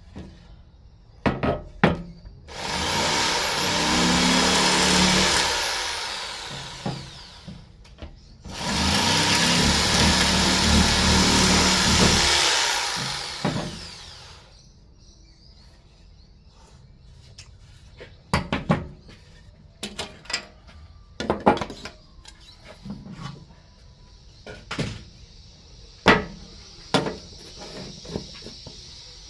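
Handheld power tool cutting in two runs of about five seconds each, its high motor whine sagging and recovering under load, followed by scattered knocks and taps as the work is handled.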